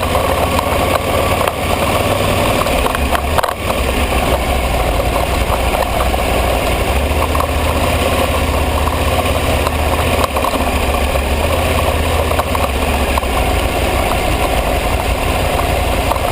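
Aprilia ETV 1000 Caponord's V-twin engine running steadily, loud and even.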